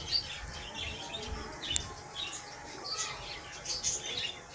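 Small birds chirping in short, high calls, on and off, with one sharp click just before the middle.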